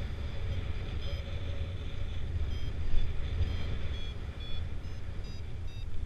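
Wind buffeting the microphone in flight, with a variometer beeping short tones that shift in pitch, coming about twice a second in the second half: the glider is climbing in lift.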